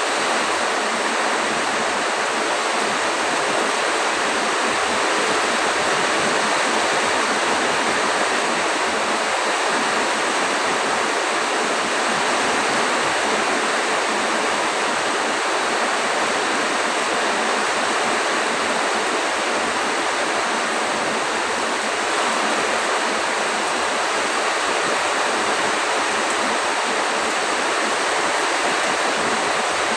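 Storm downpour: heavy rain and wind making a loud, steady, unbroken rush.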